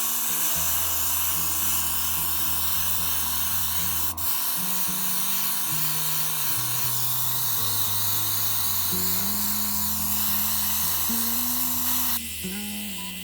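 Airbrush with a built-in compressor spraying paint: a steady hiss over the compressor's motor buzz. It dips briefly about four seconds in and cuts off near the end, with background music underneath.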